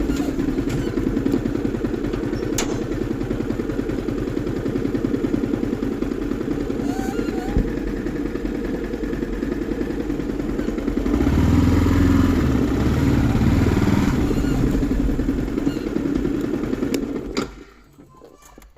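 Yamaha R15 V4's single-cylinder engine running with a steady pulse. It gets louder for about three seconds partway through, then stops abruptly about a second before the end.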